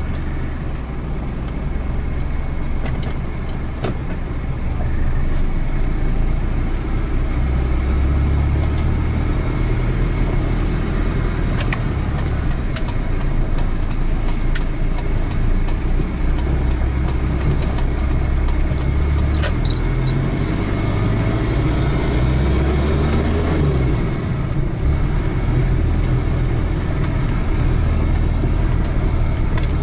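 Engine and road noise from inside an off-road 4x4 driving on a dirt track. A steady low drone shifts up and down in pitch with the throttle, and loose rattles and knocks from the cab come through over bumps in the middle stretch.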